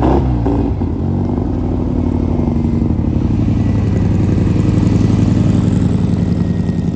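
A vehicle engine running loud and close, its pitch shifting in the first second and then holding steady.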